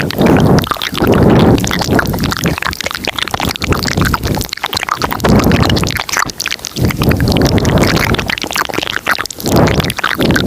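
Layered ASMR mouth sounds close to the microphone: many quick wet clicks and smacks over low, breathy rushes that swell and fade every second or two.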